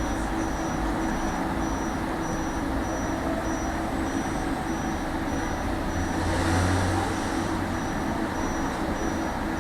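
Tram running along the line: steady rolling and motor noise with a low hum, swelling briefly about six seconds in.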